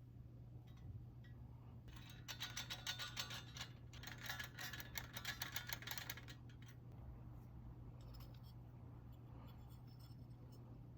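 Rapid, even scraping strokes in two runs of about two seconds each, beginning about two seconds in, over a faint steady low hum.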